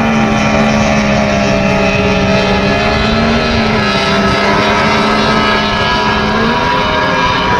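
Racing powerboat engine running loud and steady at high revs, its pitch wavering slightly.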